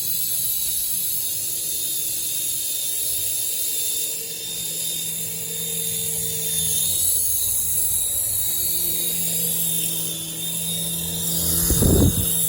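Small electric motors of a remote-control toy helicopter running steadily, with a high-pitched whine and a rotor hum that shifts slightly in pitch. A brief loud low rush comes near the end.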